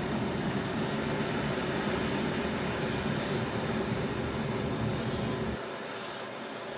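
Rhaetian Railway Bernina line train rolling along the track, heard from inside a passenger car as a steady rumble and rolling noise. The low rumble drops away abruptly about five and a half seconds in, and a faint high wheel squeal comes in near the end.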